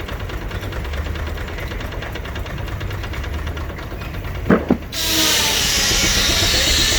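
Steam traction engine running steadily on the belt to a sawmill, then two sharp knocks a little past halfway, followed by a sudden loud hiss that continues.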